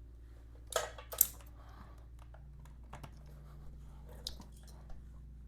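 A few sharp clicks and knocks from hand tools and battery terminal hardware being handled at a motorcycle battery, the two loudest close together about a second in, then fainter taps.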